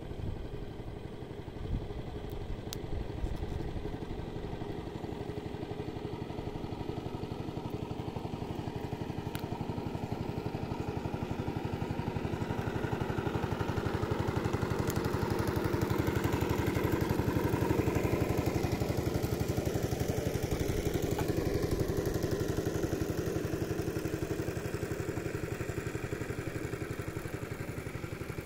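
A small engine running steadily, growing louder to a peak about two-thirds of the way through and then fading.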